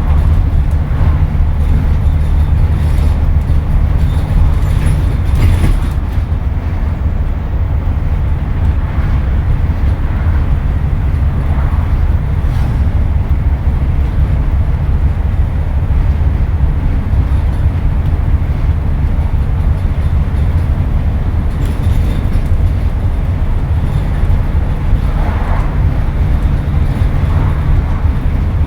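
Scania N230UD double-decker bus heard from onboard, its five-cylinder diesel engine running with a steady low drone, dipping slightly about six seconds in, with occasional faint rattles.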